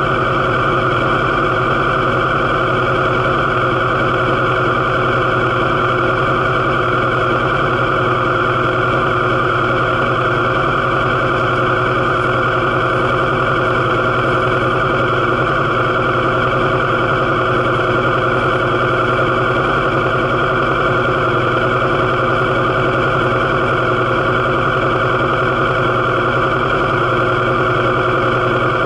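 Kawasaki KLX250's single-cylinder four-stroke engine running at a steady idle, its note holding even and unchanged.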